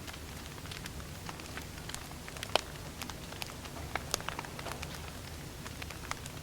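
Firewood burning, with irregular crackles and pops over a steady low rumble; the sharpest pop comes about two and a half seconds in.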